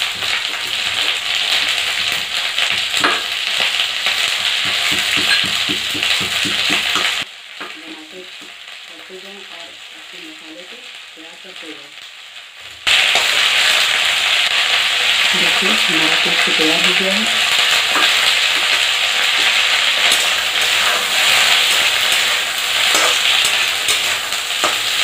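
Green peas and onion sizzling in hot oil in a steel kadhai as they roast. The sizzle drops out for about five seconds near the middle, leaving only faint background sound, then returns just as loud.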